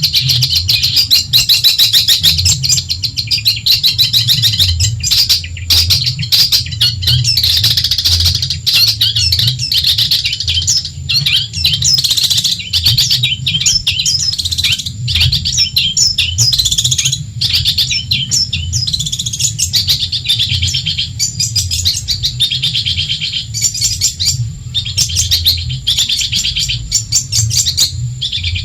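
Long-tailed shrike (cendet) singing continuously: a fast, dense chatter of scratchy notes and trills, broken only by brief pauses, over a low hum.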